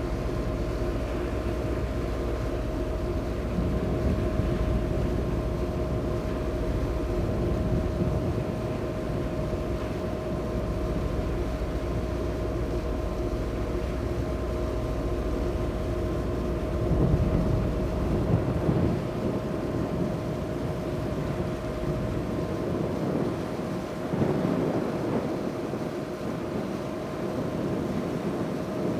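High-speed passenger ferry underway, heard on deck: a steady engine drone with a constant hum over a rumbling rush of wind and water. The deep rumble eases somewhat after about two-thirds of the way through.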